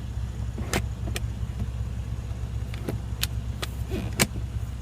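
Several sharp plastic clicks from the rear door ashtray lid of a Porsche Cayenne being opened and shut, spread a second or so apart, over a steady low hum in the car's cabin.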